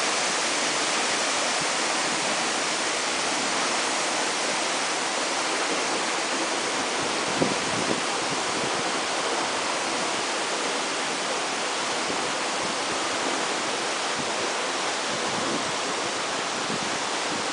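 Waterfall: a steady, even rush of falling water, with one brief click about seven seconds in.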